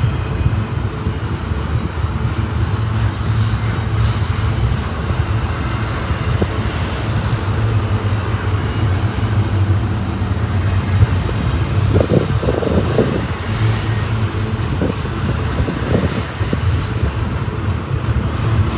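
Strong wind buffeting the microphone, with a steady low rumble underneath and a louder gust about two thirds of the way through.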